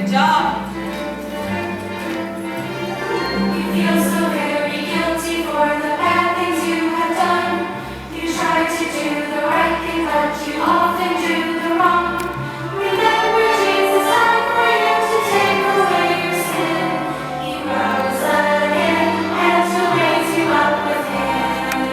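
Music: a choir singing with instrumental accompaniment, over changing bass notes and a regular beat.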